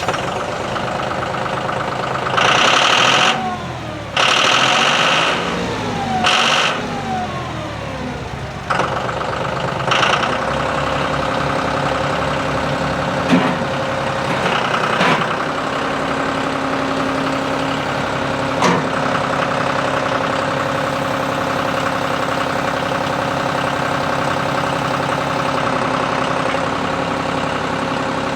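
John Deere 5055D's three-cylinder turbo diesel running, its speed rising and falling several times in the first eight seconds, then running steadily with a few short knocks.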